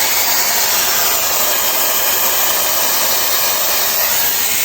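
Shark FlexStyle air styler running steadily on its high setting with the auto-wrap curler barrel fitted: a constant rush of blown air with its motor hum.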